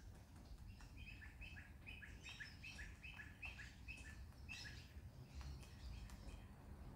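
Faint bird chirping: a quick run of about fifteen short, falling notes, roughly four a second, lasting about four seconds before it stops.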